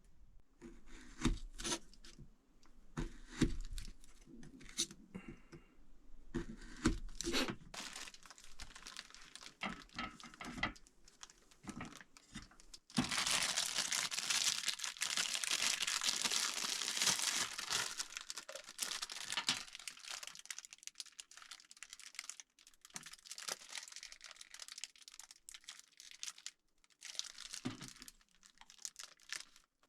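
Plastic packaging crinkling and being torn open, with scattered small sharp clicks at first and a longer stretch of rustling in the middle.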